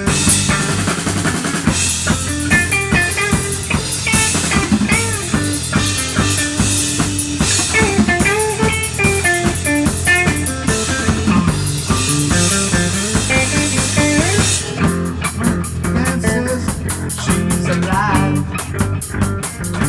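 Rock music with a drum kit and guitar, playing continuously.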